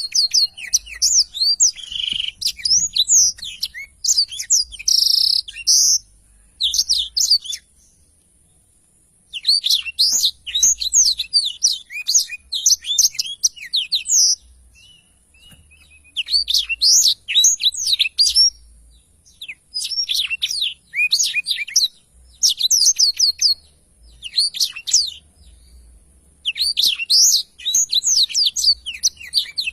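Black-throated canary (blackthroat) singing in full, vigorous song: long phrases of rapid twittering notes, several seconds each, broken by pauses of a second or two.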